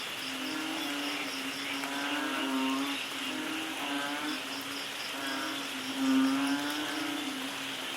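Rain field recording from Thailand with animals calling through it: repeated pitched calls about every second, a low steady drone, and a fast regular pulsing high chirp over a continuous hiss of rain.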